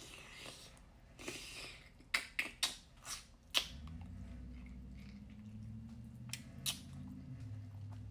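Sharp cracks and snaps of seafood shells being broken open by hand, several in quick succession, with soft wet handling noise. About halfway through a low steady hum comes in underneath.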